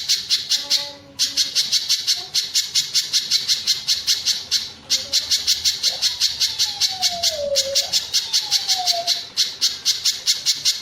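Spiderhunter (pijantung gunung) calling: a fast, harsh, repeated chatter of about four notes a second, broken by brief pauses.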